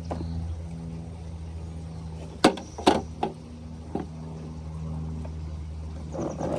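Sharp plastic clicks and knocks from a toy garbage truck and its bins being handled: two loud ones about halfway through, then a couple of lighter ones, and a brief scrape near the end, all over a steady low hum.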